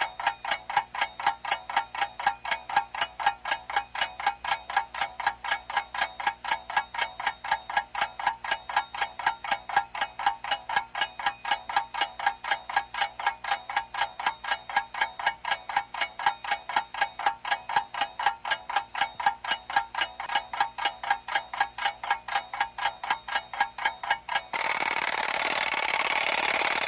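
Countdown-timer clock ticking sound effect, rapid even ticks about four a second, giving students 30 seconds to think. About 24 seconds in the ticking gives way to a steady hiss.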